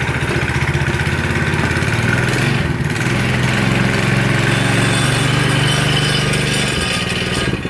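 Predator 212cc single-cylinder four-stroke engine on a mini bike running steadily just after its first start, warming up. Its pitch steps up a little about two seconds in.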